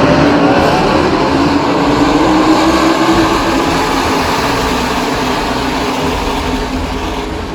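NASCAR Craftsman Truck Series race trucks running at speed on the track, the engine note dropping slightly in pitch as the field goes by and slowly fading.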